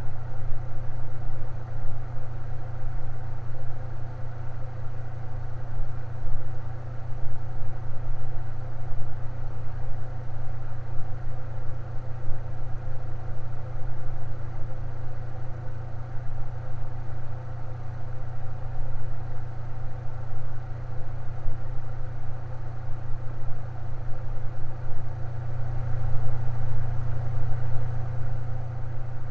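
Electric fan running steadily: a constant low motor hum with a fainter rush of air above it.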